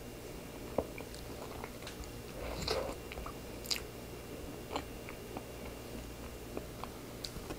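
Close-miked chewing of a soft cream-filled bun: faint, scattered wet mouth clicks and smacks, a little fuller around three seconds in.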